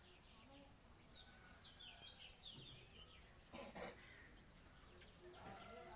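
Faint bird chirps, many short calls in quick succession, over low background noise.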